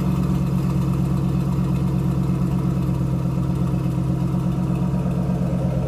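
2010 Ford Mustang GT's 4.6-litre V8 idling steadily through an off-road H-pipe (no catalytic converters) and factory mufflers.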